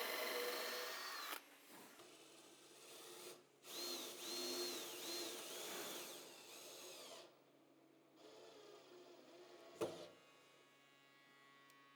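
Power drill working wood: its motor runs and stops about a second in, then runs again for about three seconds with its pitch dipping and recovering several times as it bites into the wood. A single sharp knock comes near the end.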